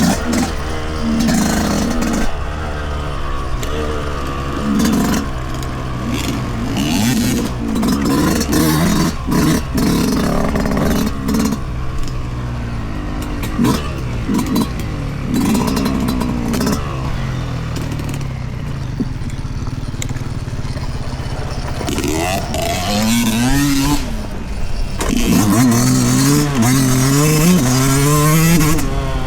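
Yamaha YZ125's 125cc two-stroke single-cylinder engine being ridden on a dirt trail, the revs rising and falling continually, amid frequent short knocks and clatter. Near the end it accelerates hard, the pitch climbing in steps as it shifts up through the gears.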